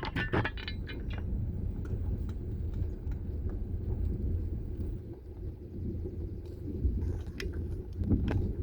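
Car moving slowly, a steady low rumble of engine and tyres, with short crackling clicks in the first second and again near the end.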